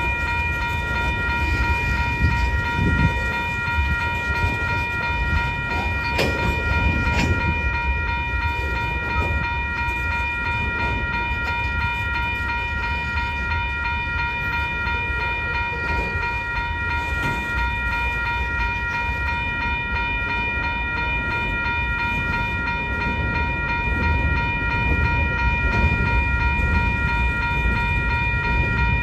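Freight train cars rolling past with a steady low rumble, under a constant high-pitched ringing tone. There are a couple of sharp knocks about six seconds in.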